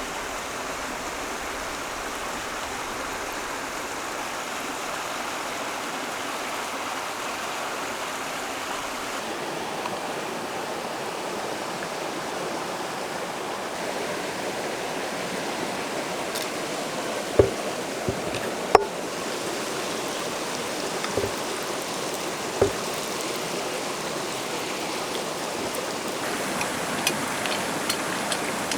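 A steady rushing noise, like running water, with a few sharp clicks or knocks in its second half.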